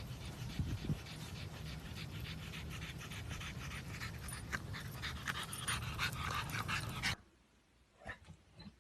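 A dog panting steadily. The panting cuts off abruptly about seven seconds in, leaving a few faint brief sounds.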